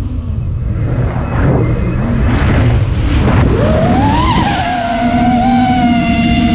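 Electric motors of a battery-powered RC aircraft whining; the pitch drops off sharply at the start as the throttle is cut, then rises again about four seconds in and holds steady. Wind buffets the microphone underneath.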